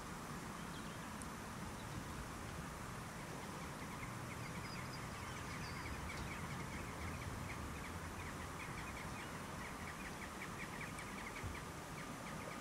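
Steady outdoor background hiss and low rumble, with a small bird's quick, repeated high chirps in the distance from about three seconds in.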